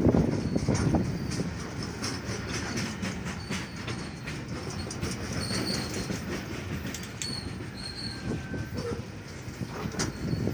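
Long freight train passing at speed: a steady rumble with the fast clatter of wheels over rail joints, and a few brief high wheel squeals in the second half.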